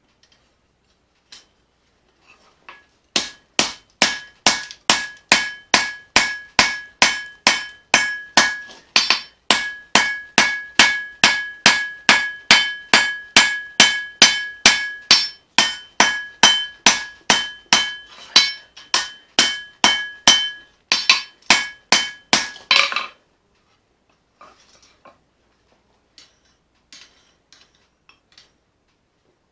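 Hand hammer striking leaf-spring steel on an anvil while a knife blade is forged, about two blows a second with a clear ring on each. The hammering starts about three seconds in and stops a few seconds before the end, leaving a few faint clinks.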